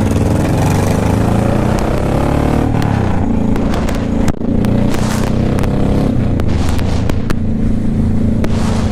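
Motorcycle engine running under load, its pitch climbing as it accelerates. There is a short break about four seconds in, then it holds a steadier pitch.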